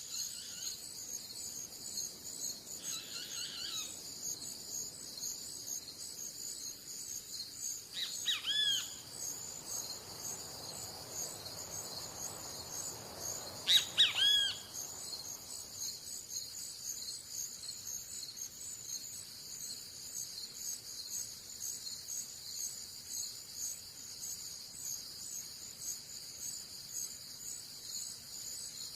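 Steady, pulsing high chorus of insects, crickets or similar, with a few short bird calls over it: one near 3 seconds in, one near 8 seconds, and the loudest pair of calls about 14 seconds in.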